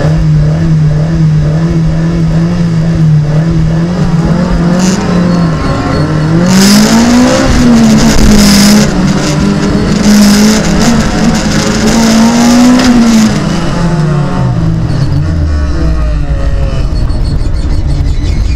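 Rallycross car's engine, heard from inside the car, held at steady high revs on the start line. It then revs up and down through the gears as the car pulls away in the pack, with bursts of hiss. The revs fall away about three-quarters of the way through as the car slows for a corner.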